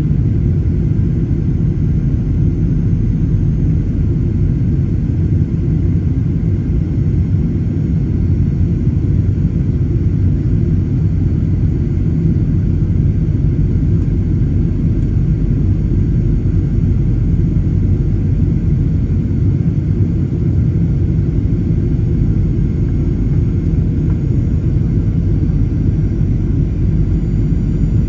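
Steady low rumble inside the passenger cabin of a Boeing 737-800, from its CFM56-7B turbofan engines and the aircraft around them, with a few faint steady hums above it and no change in level.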